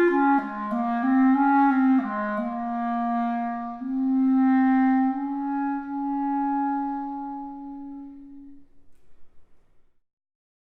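Solo clarinet playing a few slow notes, then one long held low note that fades away to silence near the end, closing the piece.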